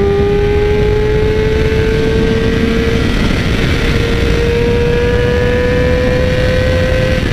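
Yamaha R6's inline-four engine breathing through a full Leo Vince SBK exhaust, pulling under sustained acceleration, its pitch climbing steadily for several seconds.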